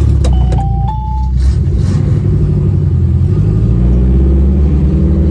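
Race car engine running loud and steady at low revs, a deep rumble that holds through.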